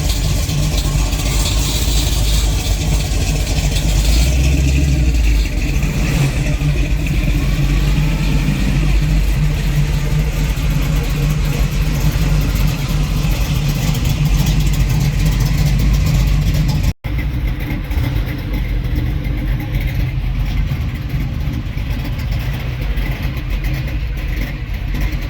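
A car engine running close by, steady and loud, with a momentary dropout about two-thirds through.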